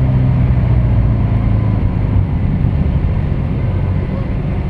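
Car engine running with a loud, low drone; the even hum turns into a rougher rumble about two seconds in.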